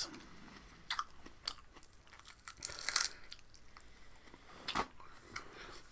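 Close-up crunching and chewing of raw vegetables in the mouth: scattered crisp crackles, the loudest bite about three seconds in.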